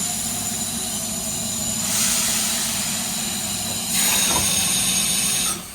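Steam locomotive close by: a steady hiss of escaping steam over a low hum. The hiss swells twice and cuts off suddenly near the end.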